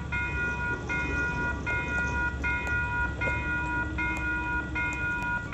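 Railroad grade crossing warning bell ringing in an even, steady rhythm, about seven rings in five and a half seconds, over a low rumble.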